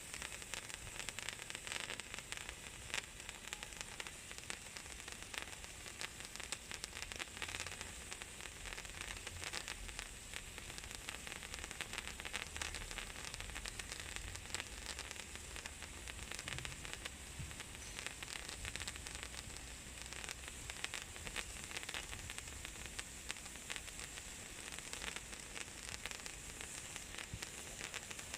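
Ice sparklers burning: a steady crackling fizz dense with many small snaps.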